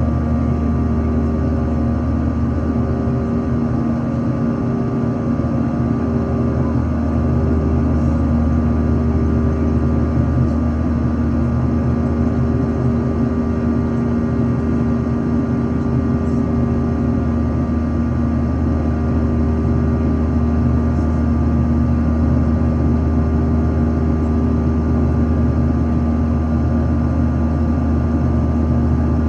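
Airliner engines running with a steady, unchanging low drone and constant hum tones.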